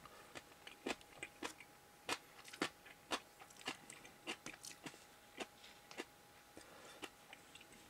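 A person chewing food close to the microphone: faint, irregular wet mouth clicks, two or three a second.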